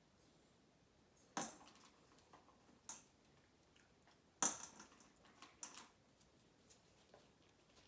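A dog chewing something crunchy: a few separate crunches a second or more apart, the loudest about a second and a half in and about four and a half seconds in.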